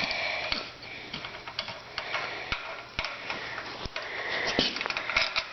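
Irregular sharp clicks of a hand wrench working the bolts out of the bottom of a Briggs & Stratton engine block.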